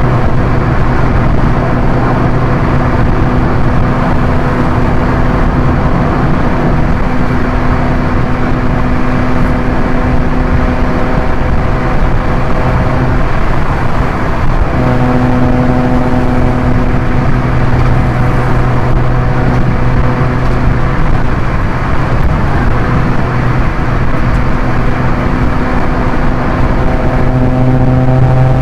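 Proton Inspira's 1.8-litre four-cylinder engine running at a steady high speed, a constant engine drone over tyre and road noise. The drone briefly fades about halfway through, then returns and starts rising in pitch near the end as the car accelerates.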